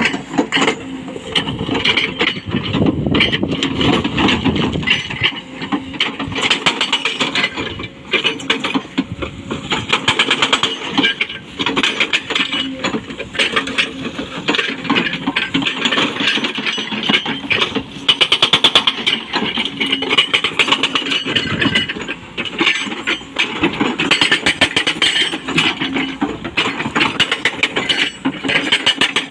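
Hydraulic breaker on an excavator hammering on rock in rapid blows, with the excavator's engine running underneath. The hammering goes on almost without a break, easing off briefly a couple of times.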